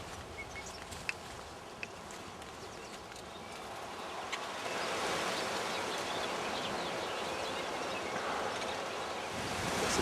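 Wind blowing through the trees, quiet at first and getting louder about halfway through, with a few faint, short bird chirps.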